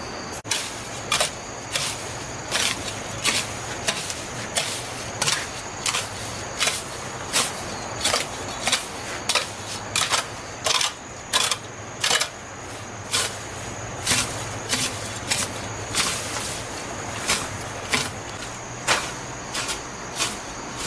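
A hand tool working the ground in regular scraping strokes, about one and a half strokes a second, with crickets chirping steadily underneath.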